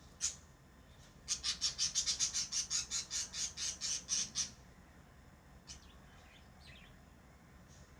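Lovebird calling: one sharp chirp, then about a second in a fast run of sharp, high chirps, about six a second for some three seconds, followed by a couple of faint calls.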